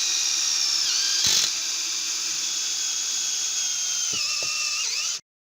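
Drill driver motor running with a steady high whine, its pitch sagging briefly about a second in and again near the end as it takes load, with a short knock about a second in. It cuts off abruptly just before the end.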